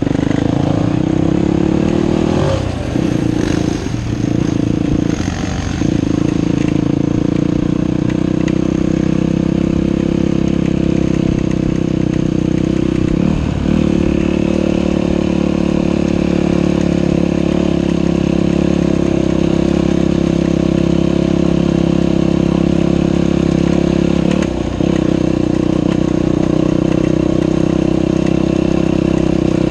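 Dirt bike engine running steadily under throttle, its pitch dropping briefly and climbing again as the throttle is rolled off or a gear changed: three quick dips in the first six seconds, and two more about 13 and 25 seconds in.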